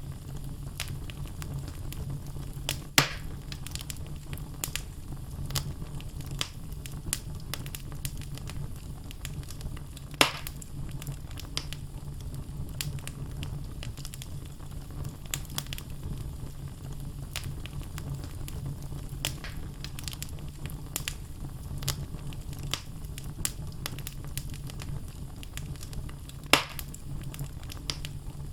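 Wood fire burning in a fireplace: logs crackling with scattered small clicks over a steady low rumble of flame, and three louder sharp pops about 3, 10 and 26 seconds in.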